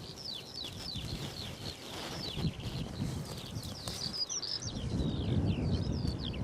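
Small songbirds singing: a quick run of short, falling chirps, over a low rumbling noise.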